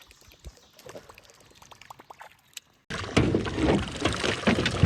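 Faint river water lapping with light ticks, then about three seconds in a loud rush of splashing, churning water starts abruptly around the jon boat.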